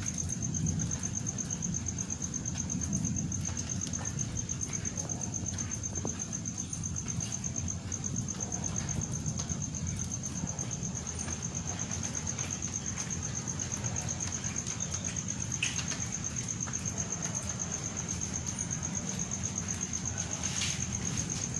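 A cricket trilling steadily in a high, fast-pulsed tone over a continuous low noise.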